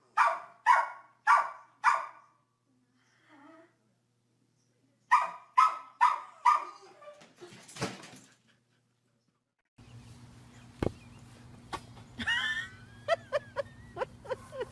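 A dog barking in quick runs of about four barks, roughly two a second, twice. Near the end a different scene with a steady electrical-sounding hum and a few short high squeaks.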